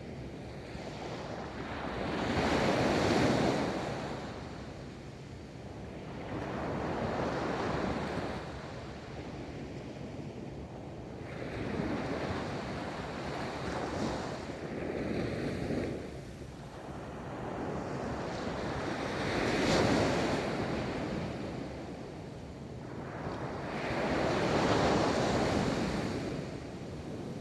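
Ocean waves breaking and washing onto a beach, the surf swelling and fading in slow surges every four to five seconds, with the strongest breakers about three seconds in and again about twenty seconds in. Some wind on the microphone.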